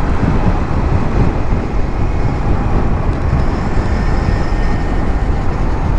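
Wind and road noise on the microphone while riding a 150cc motorcycle: a loud, steady rush, deepest at the low end.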